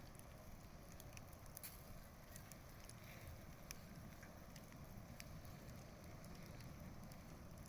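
Wood bonfire burning quietly: scattered, irregular sharp crackles and pops over a low steady rush.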